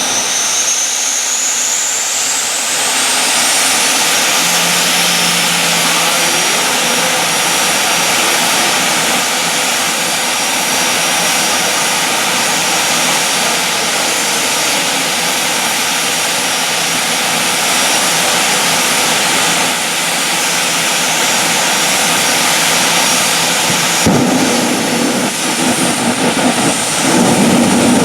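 Jet car's turbine engine running loud: a high whine rises in pitch over the first few seconds and settles into a steady jet roar. Near the end the sound turns uneven and gusty.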